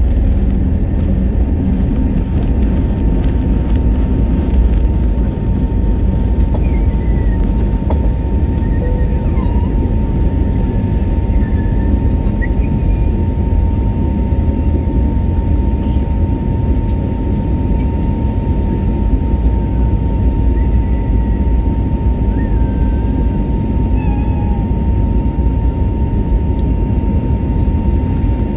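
Jet airliner engines running at high power, heard inside the passenger cabin: a steady low rumble with a constant whine held on top.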